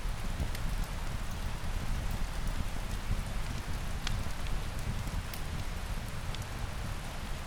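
Steady rain hissing over a low rumble, with scattered sharp crackles and pops from a fireplace fire.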